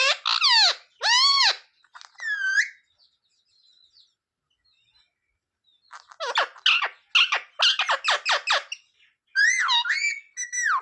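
Pet green parrot calling and chattering in short pitched bursts, with a pause of a few seconds before a quick run of sharp calls.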